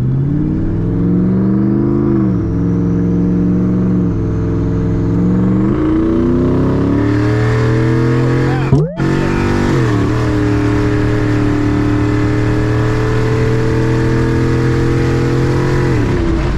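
Twin-turbocharged Ford 4.6 two-valve V8 of a Crown Victoria running under load, its revs climbing, holding steady, dropping and climbing again several times. The sound breaks off for a moment about nine seconds in, then the engine comes back at high, steady revs and drops off near the end.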